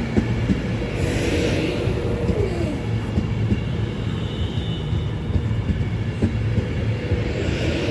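Class 390 Pendolino electric train pulling into the station platform: a steady low rumble, with a brief falling tone about two seconds in.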